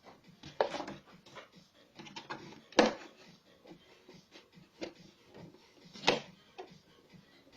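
Scissors cutting up the side of a milk carton: irregular snips and clicks, the loudest about three seconds in and again about six seconds in, with fainter handling rustle between.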